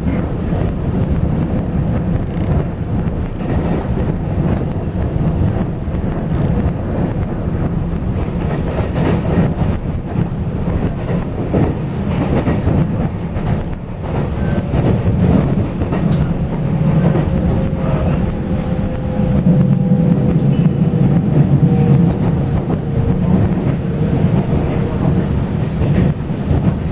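Taiwan Railway passenger train running on the rails: a steady low rumble with some clickety-clack. A faint thin whine comes in about halfway through and slowly sinks in pitch.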